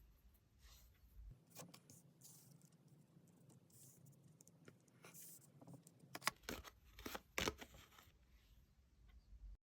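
Faint rustling and scraping of tarot cards being handled, with a few sharp snaps or taps about six and seven and a half seconds in.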